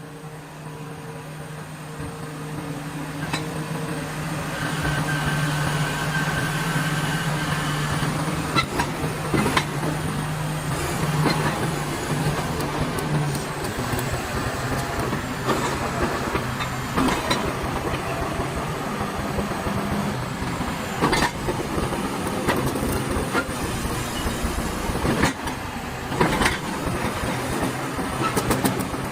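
Caterpillar D6G crawler bulldozer running, its diesel engine growing louder over the first few seconds with a steady hum. After about a dozen seconds, irregular clanks and knocks from the steel tracks and running gear take over.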